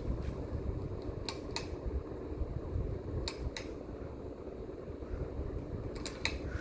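A 2001 Hampton Bay Bridgeton ceiling fan running, with a steady low rush of air and motor. Pairs of sharp clicks come about every two seconds.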